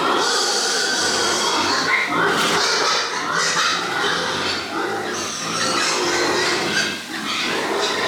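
Pigs grunting and calling, several voices overlapping without a break.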